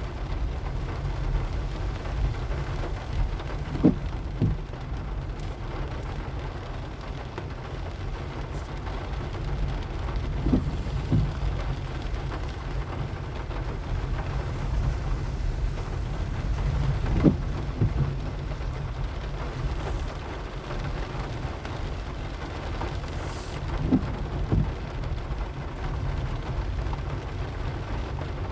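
Rain falling on a moving car, over a steady low rumble of the car driving. A pair of short soft thumps comes about every six to seven seconds.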